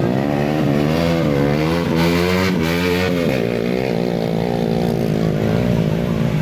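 Motocross dirt bike engines revving, the pitch rising and falling repeatedly with the throttle for about the first three seconds, then running steadier.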